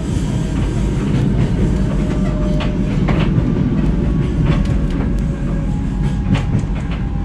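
Passenger train running, heard from inside the carriage: a steady low rumble with scattered sharp clicks and clacks.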